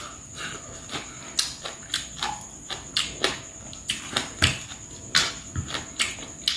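A person chewing and smacking his lips while eating rice and fried fish with his fingers: a string of irregular wet clicks and smacks. A steady high-pitched whine runs underneath.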